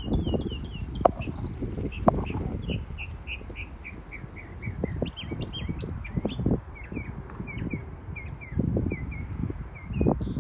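Northern mockingbird singing: a run of short, quickly repeated high notes, about three a second, then shifting to other repeated phrases. A low rumble runs underneath, and two sharp clicks come about one and two seconds in.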